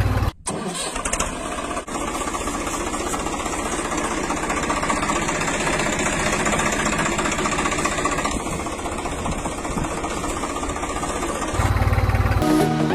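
Engine running steadily. The sound breaks off briefly about half a second in, and a louder low rumble comes in near the end.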